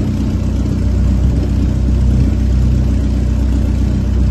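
D-Motor aero engine of a Kitfox 2 light aircraft running steadily at a constant speed during a ground run, a low, even engine note.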